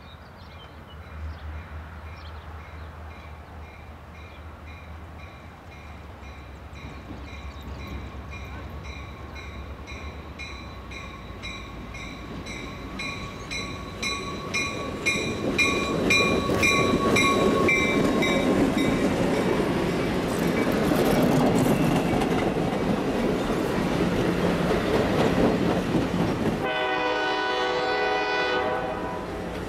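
An EMD FP9 diesel-electric locomotive approaches and passes at the head of a passenger train. A bell rings about twice a second over the low engine drone, then stops as the locomotive goes by. The engine, wheels and rail joints of the passenger cars grow loud as they pass, and a horn blast of about two seconds sounds near the end.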